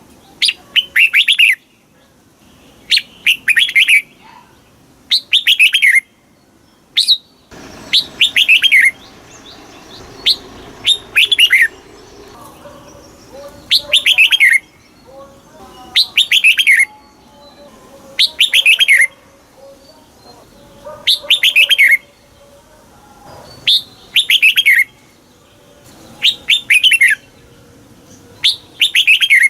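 Red-whiskered bulbul singing: short, quick phrases of falling notes, repeated about every two seconds. A faint low background noise comes in about a quarter of the way through.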